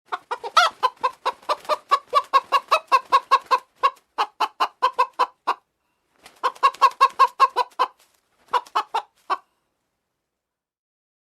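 Chicken clucking in fast, rapid runs of about four or five clucks a second: one long run, a short pause, then two shorter runs, stopping about two-thirds of the way through.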